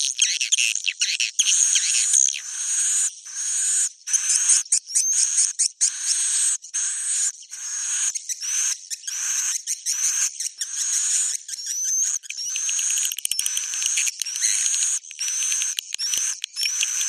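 Swiftlet 'inap' (roosting) call recording, the lure sound played in swiftlet houses: dense, high twittering chirps in short runs, one to two a second, each run topped by a thin rising whistle.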